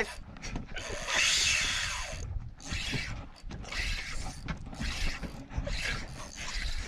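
Fishing reel being worked, its gears and ratchet rasping in repeated strokes about once a second, with a louder burst about a second in.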